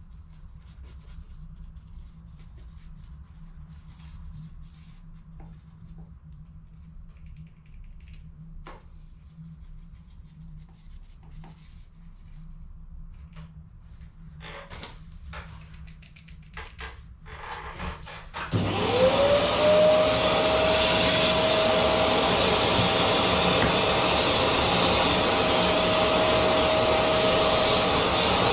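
Quiet clicks and taps of small parts being handled, then about 18 seconds in a vacuum-cleaner-type electric motor switches on, whining up to speed within a second and running steadily and loudly.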